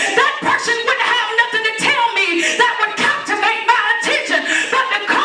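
Voices singing a gospel-style song, with the melody bending and sliding in pitch and no steady beat.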